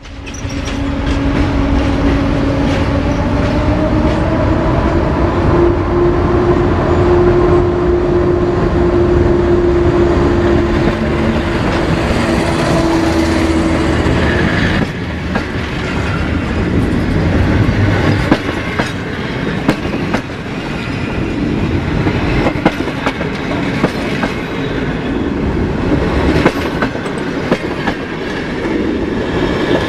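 A PKP electric locomotive approaching and passing close by, running with a steady whine that rises slightly in pitch. After about fourteen seconds its passenger coaches roll past, with the clickety-clack of wheels over rail joints.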